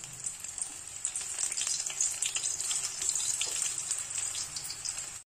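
Spring-onion and gram-flour (besan) pakora batter sizzling and crackling in hot oil in a steel kadhai as it is dropped in to deep-fry, with dense popping that grows louder about one and two seconds in as more batter goes in.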